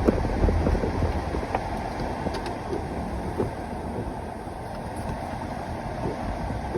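A vehicle running, a steady low noise strongest in the first second, with scattered small knocks and clicks.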